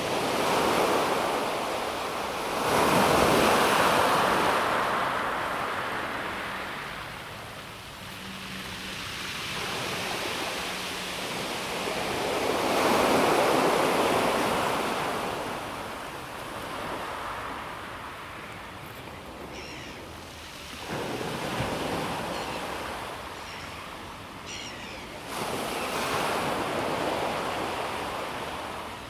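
Small sea waves breaking and washing up a pebble beach, with the surf swelling and fading in slow surges every several seconds.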